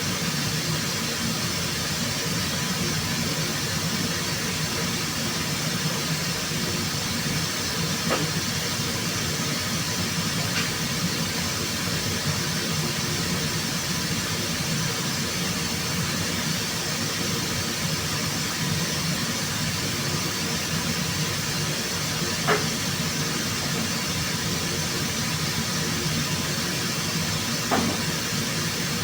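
Steady hum and hiss of body-shop machinery running, with a few faint clicks.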